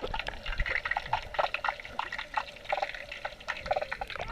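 Swimming-pool water bubbling and gurgling, heard with the camera held under the water: a quick, irregular run of small bubble pops.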